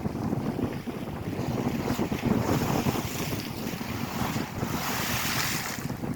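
Lake Erie waves washing on the shore, with wind buffeting the microphone in a steady rumble. A brighter wash of surf swells through the second half.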